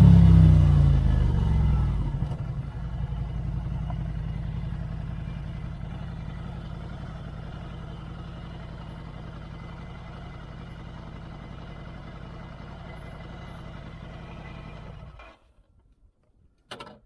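Ducati Scrambler 803's air-cooled L-twin through a Termignoni exhaust, its revs falling away over the first two seconds and then running steadily, gradually quieter, until the sound cuts off suddenly about fifteen seconds in. A single short click follows near the end.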